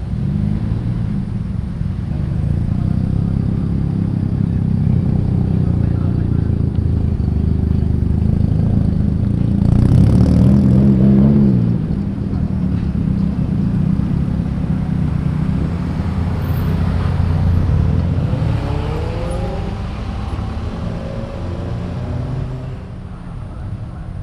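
Modified cars rolling out one after another, engines and exhausts revving as they drive past. The loudest car goes by about ten seconds in, another accelerates with a rising engine note a little before twenty seconds, and the sound dies down near the end.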